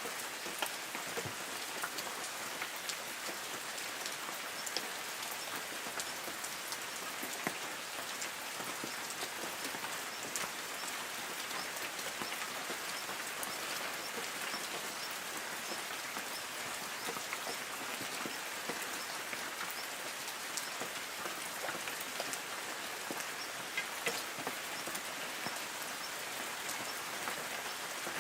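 Light rain falling steadily on forest trees: an even patter with many small distinct drops ticking on leaves.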